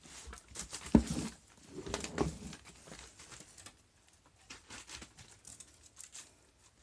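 Kittens scrambling and rustling over fabric close to the microphone, with a sharp knock about a second in and scattered light clicks and scuffs.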